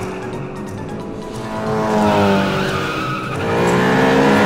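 Cartoon race-car engine sound effects: engines revving, their pitch climbing and then falling, over background music.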